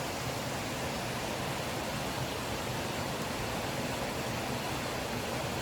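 Steady rushing water of a mountain brook or small waterfall, an even hiss with no change in level.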